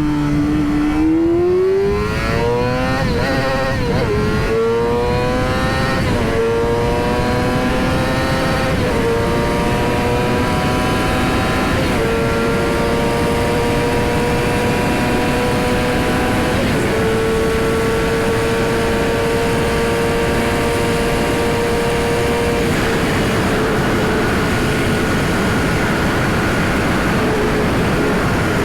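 Yamaha R6's inline-four engine accelerating hard up through the gears: the note climbs, then drops at each upshift, six or seven times, each gear pulling longer and slower than the last until it holds a steady high-speed cruise. Wind rush runs underneath throughout.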